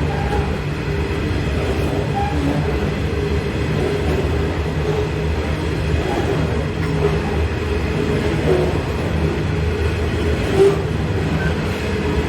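Sydney Trains electric suburban train running at a station platform: a steady low rumble with a humming tone throughout, and a brief knock about ten seconds in.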